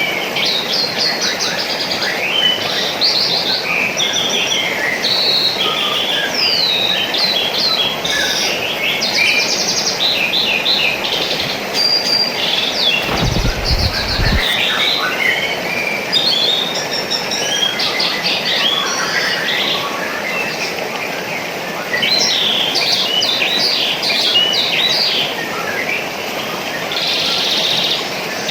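Many small birds chirping and twittering over a steady rush of water. A brief low rumble sounds about halfway through.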